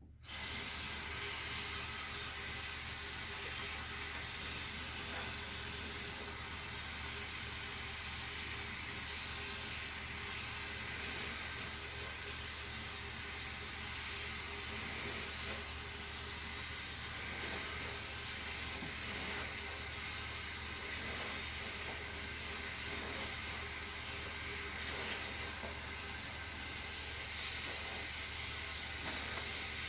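Water running steadily from a tap, a constant hiss that starts suddenly.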